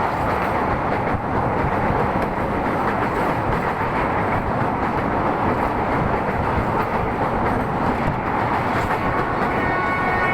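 Moving train: a steady rumble and rattle of the wheels and carriages on the track. Near the end a steady horn tone begins.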